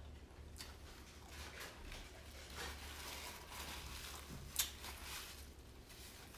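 Faint eating sounds close to the microphone: soft wet clicks of chewing and lip smacking, with one sharper click about four and a half seconds in.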